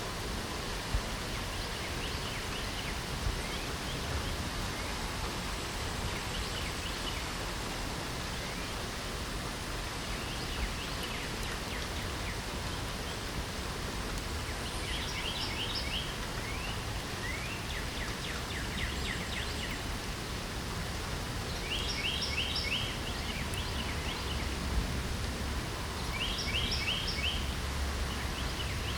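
Steady spring rain with songbirds singing over it: several short bursts of quick, repeated high chirping notes, mostly from about halfway through and again near the end.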